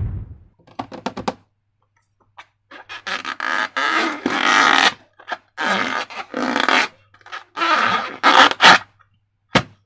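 Slime being squeezed and worked by hand: a few light clicks, then a series of irregular wet squelching bursts, each lasting about a second.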